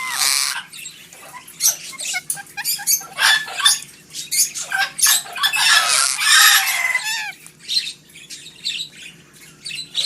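Parrots squawking and calling: a rapid run of short harsh screeches mixed with a few whistled notes, with the loudest, longest screeching about five to seven seconds in.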